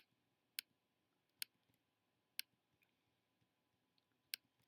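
Computer mouse clicking: a handful of single, sharp clicks at uneven intervals over near silence.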